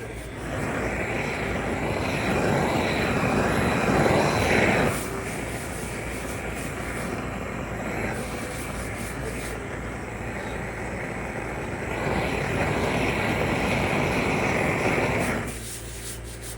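Steady rushing noise of workshop machinery, with two louder stretches: one from about half a second in to about five seconds, and another from about twelve to fifteen and a half seconds.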